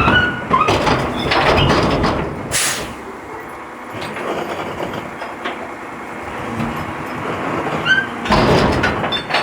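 Garbage truck working, with rattling and clattering, a short sharp hiss about two and a half seconds in, and another burst of clatter near the end.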